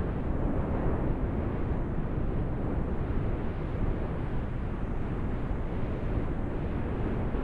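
A steady low rumble with no distinct events, holding level throughout.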